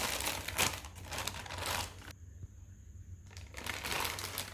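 Plastic packaging crinkling and rustling, with a few light knocks, as the mixer-grinder lids are handled; it dies down about halfway through.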